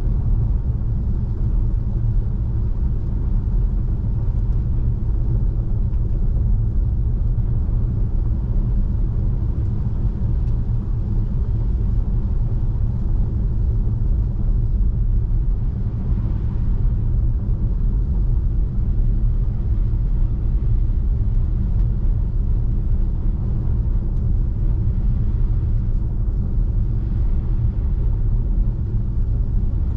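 Steady low rumble of road and tyre noise from a Tesla Model 3 driving on a snow-covered road.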